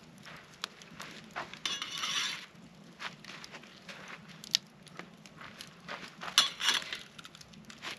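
Camp cookware and utensils clinking and knocking, with a short scrape about two seconds in and a cluster of sharper clinks near the end.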